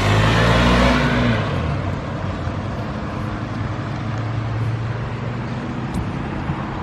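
A manual Ford Mustang's engine pulling away under throttle, fading after about a second. A quieter, steady low engine drone continues.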